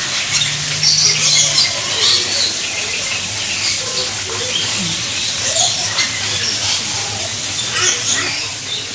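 Birds calling and squawking in short bursts every second or two over a steady high hiss, with faint voices underneath.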